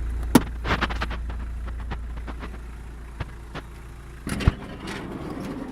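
Turbo diesel engine of a 1991 Mitsubishi Delica van idling with a steady low rumble that grows fainter, with a few sharp knocks about half a second in and again near the end.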